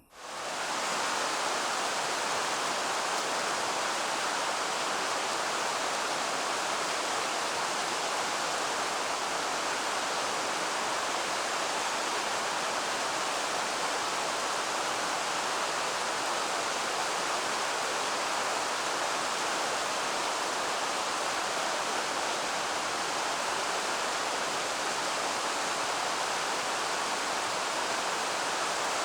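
Steady, even rushing noise of running water or rain, unchanging throughout.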